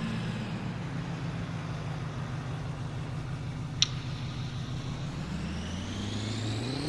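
Pickup truck engine idling steadily, then revving up near the end as it pulls away, a high whine rising along with it. One sharp click a little past halfway.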